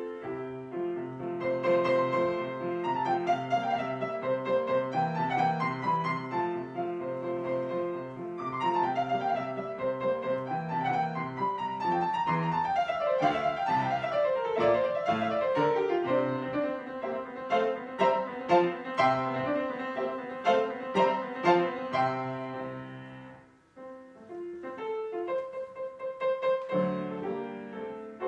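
Classical chamber music played on piano with a bowed string instrument: flowing piano runs and arpeggios under a held string line, with a brief break a little over 23 seconds in before the playing resumes.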